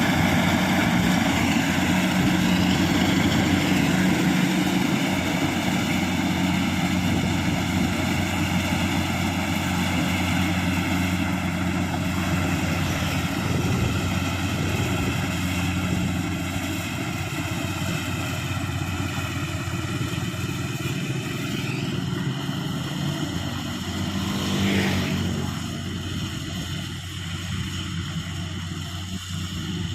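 Engine running steadily, with a whine whose pitch drifts slowly; a brief louder swell comes about 25 seconds in, and the sound is a little quieter after it.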